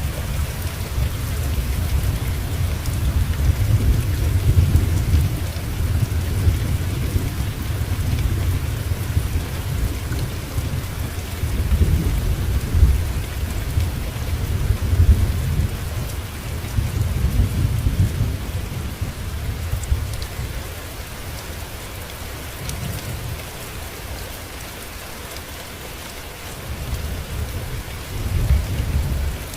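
Steady rain falling, with thunder rolling low and long underneath. The rumbling is heaviest through the first two-thirds, eases off, then swells again briefly near the end.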